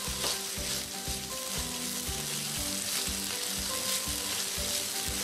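Thick ground peanut-and-coconut masala paste sizzling steadily in hot oil in a pan while a silicone spatula stirs it. The paste is being fried until the oil separates from it.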